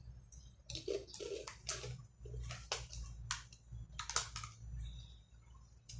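Irregular sharp crackles and crunches, about a dozen, from crunchy snack chips and their plastic packet being handled.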